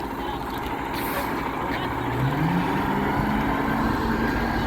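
Garbage truck's diesel engine running, then revving up about two seconds in and holding at the higher speed. There is a brief hiss about a second in.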